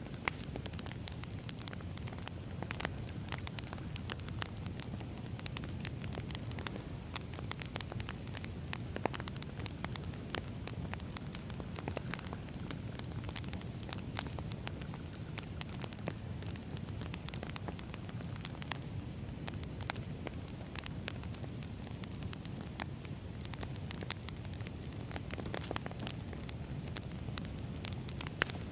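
Wood fire burning: a steady low rush with frequent sharp, irregular crackles and pops of burning logs.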